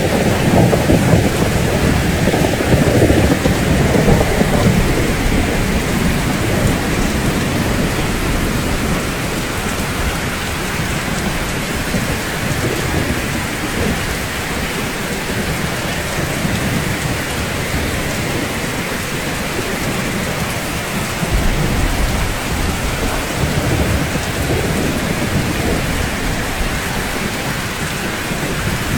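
Steady rain falling on rooftops, with a long roll of thunder rumbling through the first few seconds and a fainter rumble a little past the 20-second mark.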